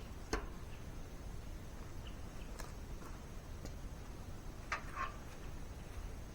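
A few sparse, light clicks and taps, with a quick double tap near the end, over a low steady background rumble.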